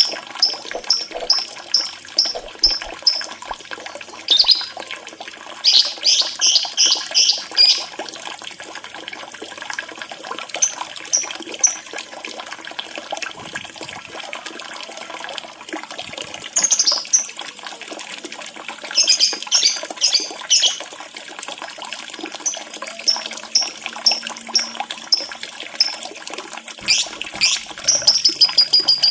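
Lovebird chirping in quick rows of short, high, sharp notes that come in bursts with pauses between them, over steady trickling running water.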